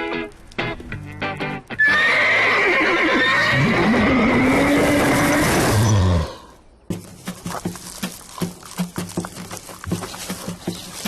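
Cartoon soundtrack: short rhythmic music notes, then a loud animal-like cry of about four seconds with sliding pitch, a brief pause, and rhythmic music resuming.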